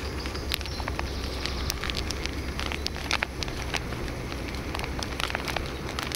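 Rice tipped from a pouch into a hot frying pan on a camping gas stove, sizzling with many small crackles over a steady low rumble.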